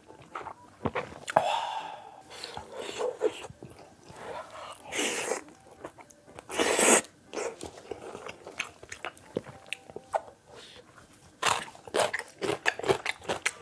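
Close-miked chewing and wet mouth sounds of someone eating spicy ramen with dumplings, egg and rice cakes, with irregular small clicks and smacks throughout. Two longer, louder noisy sounds come about five and seven seconds in.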